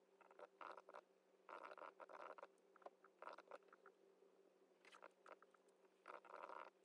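Faint household handling noises: short rustling or scraping strokes and light clicks, over a steady low hum.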